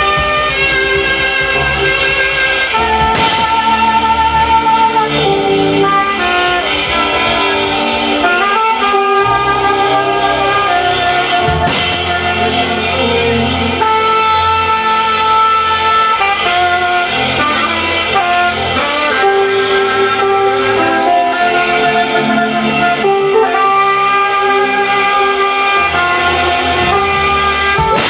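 Gospel worship music: a saxophone playing slow, held melodic lines with bends and slides, over sustained chords and bass.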